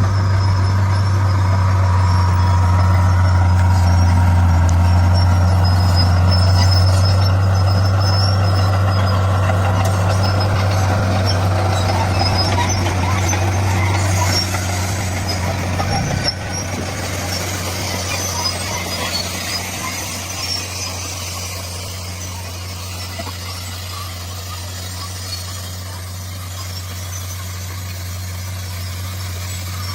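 D41 bulldozer's diesel engine running hard, with high metallic squeaks and crackle from the tracks and the stone being pushed. About halfway through there is a short knock and the engine eases off, running more quietly to the end.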